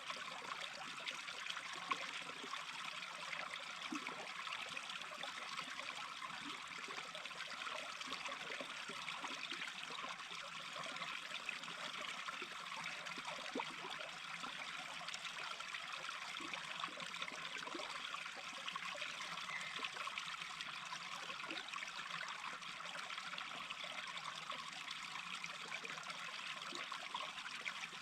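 A small stream babbling steadily, a continuous trickle of running water.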